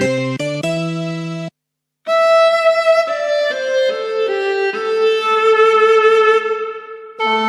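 Yamaha PSR-SX700/SX900 arranger keyboard playing sampled voices: a few chords cut off about a second and a half in, and after a short break its violin voice plays a slow melody of held notes.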